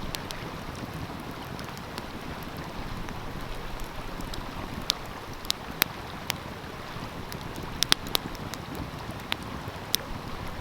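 Wood fire crackling, with sharp irregular pops, over the steady rush of a flowing stream.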